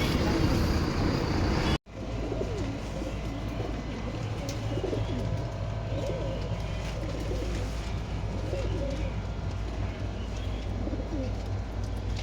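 Domestic pigeons cooing, several calls overlapping, over a steady low hum. The first two seconds, up to a sudden cut, hold louder street noise.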